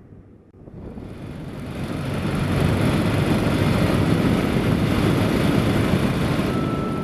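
Motorcycle riding away and gathering speed, its engine and the wind and road rush building to a loud, steady roar; a thin steady whine joins near the end.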